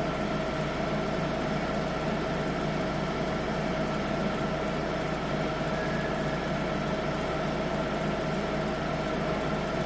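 Holder C70 tractor engine idling steadily, with a steady whine above the engine note.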